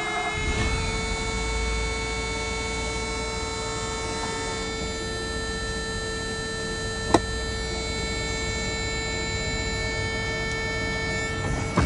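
Mercedes 500 SEC's 5.0-litre V8 just started from cold after sitting all night, running steadily at idle. A steady whine sits over it and cuts off with a click near the end, with a single sharp snap about halfway through.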